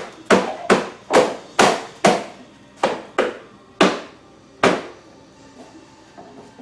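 Mazda RX-8 plastic side skirt being struck about ten times in quick, uneven succession to knock its clips home onto the car, each blow a sharp knock with a short ring; the knocks stop about five seconds in.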